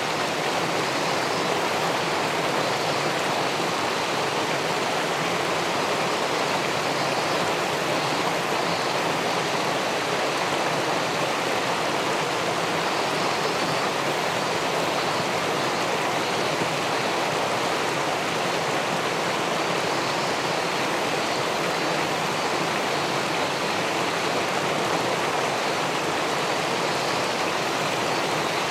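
Steady rush of river water spilling over a weir into the pool below, an even splashing hiss with no change in level.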